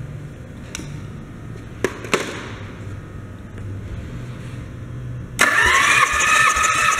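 A few sharp clicks, then, near the end, the starter motor of a Nissan VG30DETT twin-turbo V6 suddenly starts cranking the engine: a whine that rises briefly and then holds, over low pulsing thumps.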